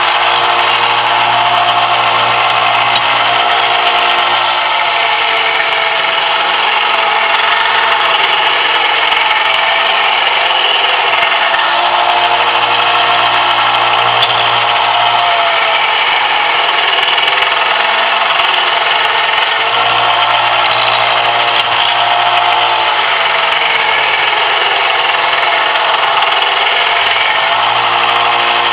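An electric power tool running steadily while it works a brass piece for a knife, its pitch dipping slightly a few times.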